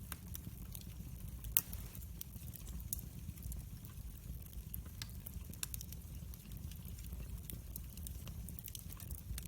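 Wood fire burning in a fireplace: a low steady rumble of the flames with scattered sharp crackles and pops, the loudest pop about one and a half seconds in.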